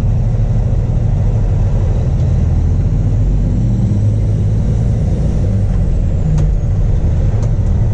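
Straight-piped ISX Cummins diesel in a Peterbilt 379 tow truck running with a steady low rumble.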